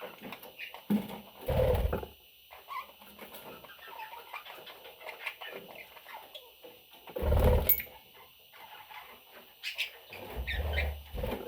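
Baby budgerigars (budgie chicks) giving short, scattered chirps, with two louder, deeper rustles about one and a half and seven seconds in.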